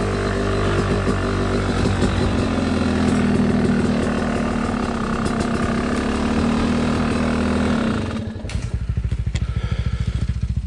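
A Yamaha dirt bike's single-cylinder engine idling steadily. About eight seconds in it drops to a slower, pulsing idle.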